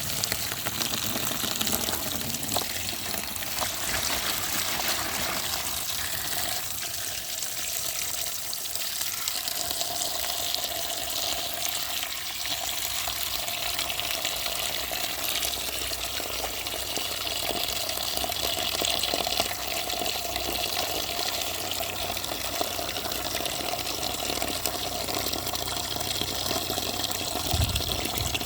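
Water running steadily from a tap and splashing into a sink.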